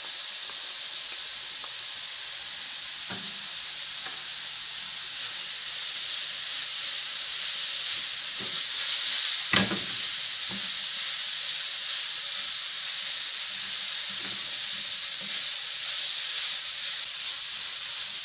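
Cabbage, carrot and mince filling sizzling in a hot frying pan while a wooden spatula stirs it. There are occasional knocks of the spatula against the pan, the loudest about halfway through.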